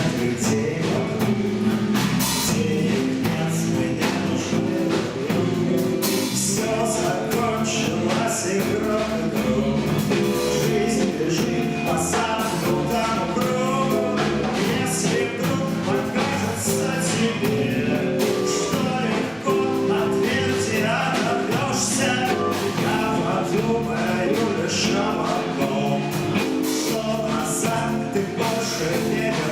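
A rock band playing a song: a voice singing over electric guitar and a drum kit with regular cymbal hits.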